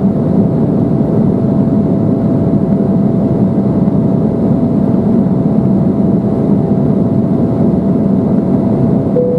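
Steady cabin noise inside an Embraer 175 jet in flight after takeoff: a low, even roar of engines and airflow with a thin steady whine above it. A second short tone comes in just before the end.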